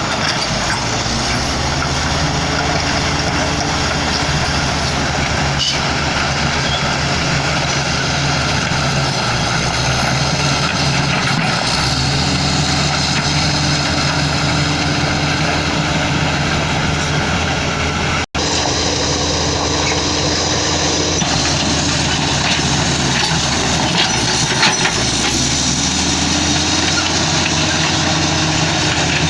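Heavy diesel construction machinery engines running steadily under load, the engine pitch shifting a few times. There is a brief, sudden dropout about two-thirds of the way through.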